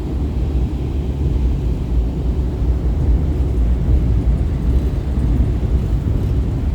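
Steady low rumble of the moving Staten Island Ferry, with no pauses or changes.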